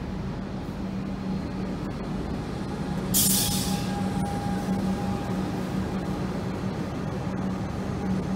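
Electric suburban train standing at a platform with a steady electrical hum from its equipment, and a short, sharp hiss of released air about three seconds in.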